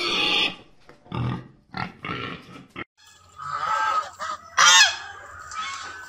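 Black pot-bellied pigs grunting a few short times, then white domestic geese honking in several calls. The loudest is a falling honk about three-quarters of the way through.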